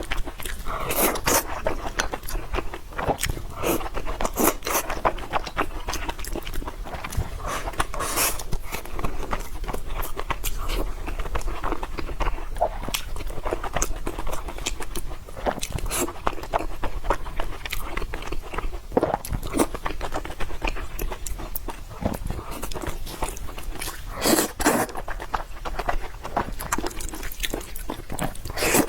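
Close-miked eating: a person chewing and biting food, with a dense run of wet mouth clicks and smacks and louder bursts about a third of the way in and near the end.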